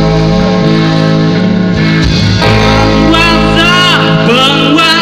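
Band music led by guitar, with a singing voice coming in about three seconds in.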